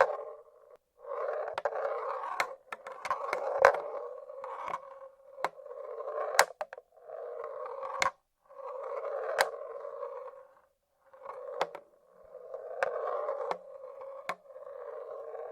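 Marbles rolling along the wooden tracks of a marble-run machine. The rolling comes in repeated runs of a second or two with short breaks between them, and sharp clicks sound as the marbles knock and drop.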